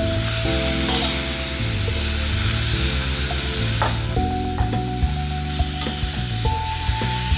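Raw marinated chicken sizzling as it lands in hot oil and onion masala in a metal kadai, the sizzle strongest in the first couple of seconds. A metal slotted spoon scrapes and clicks against the pan as the pieces are stirred.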